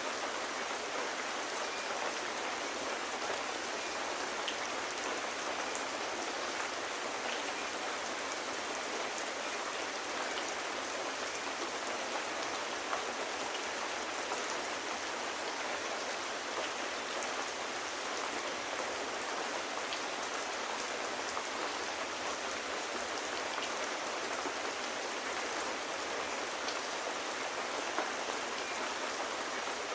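Steady rain falling on surfaces, an even hiss with scattered sharp drop ticks.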